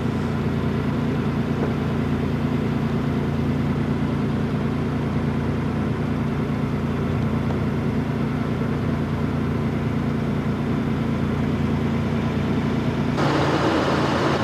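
Truck engine running steadily while driving, with road noise: an even, low drone. About thirteen seconds in, the sound changes abruptly, the deep hum dropping away and a brighter rushing noise taking over.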